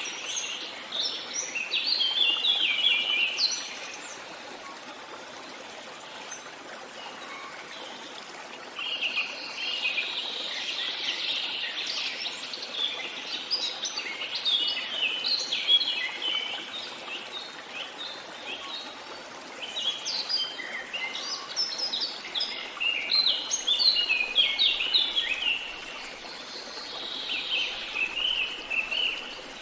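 Songbirds chirping and singing in bouts of quick, high notes, with a lull of about five seconds near the start, over a steady faint hiss.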